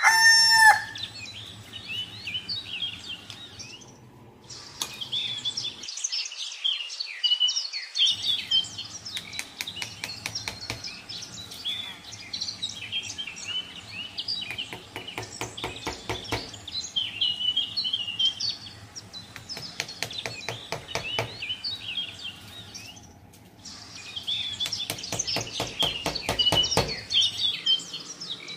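Many small birds chirping and twittering in short, quick calls over a faint low hum, with runs of rapid clicks in the middle and again near the end.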